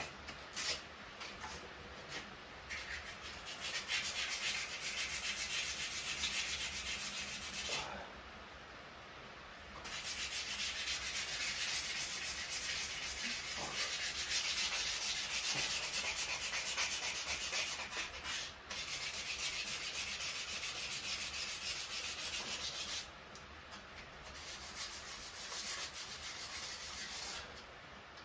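Hand sanding: quick, rough rubbing strokes of an abrasive on a surface, in long runs with a pause of about two seconds around a third of the way in and a drop in level near the end.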